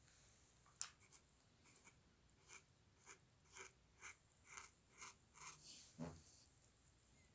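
Faint hand-drawing strokes on paper: a sharp tap about a second in, then a run of short scratching strokes about two a second, ending with a duller thump near the end.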